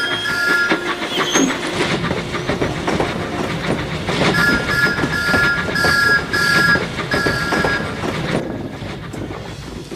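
Steam locomotive running along, its chuffing and wheel clatter going in a steady rhythm. A string of short two-note whistle toots sounds about halfway through. The running fades near the end.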